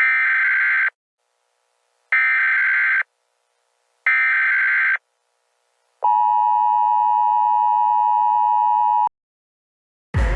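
Electronic countdown beeps: three short beeps about two seconds apart, then one long, lower-pitched tone lasting about three seconds that cuts off suddenly.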